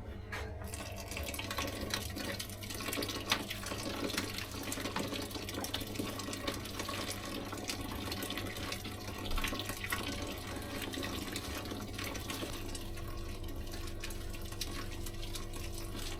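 Home-brewing pump running, with wort flowing and splashing as it recirculates through the mash. A low steady hum runs under the rushing liquid, and a further steady tone joins about twelve seconds in.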